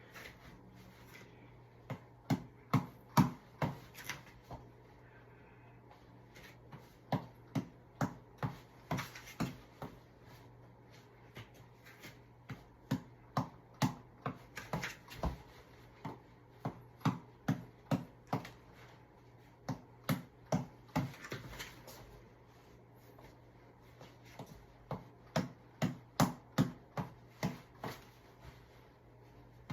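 Tapball being punched: rapid sharp slaps of the ball against the fists, about three to four a second, in runs of a few seconds with short breaks between them.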